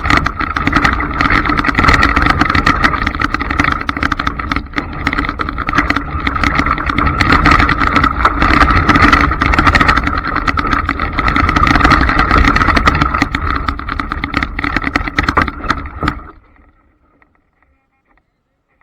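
Traxxas Slash radio-controlled trucks running at speed: a steady motor whine over the rattle of tyres and chassis. It cuts off suddenly about sixteen seconds in.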